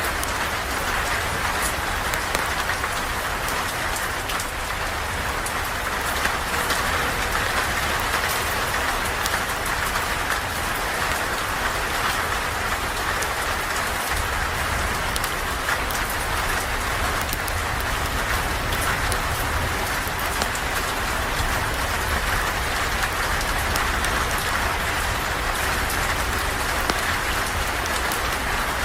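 Steady rain falling, with many small scattered ticks and a low rumble underneath.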